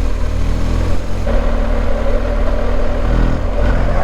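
BMW R1250GS boxer-twin engine running at a steady cruise, heard over low wind rumble.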